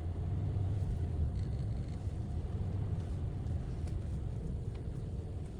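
Steady low rumble of a Subaru Crosstrek on the move, fading slowly near the end.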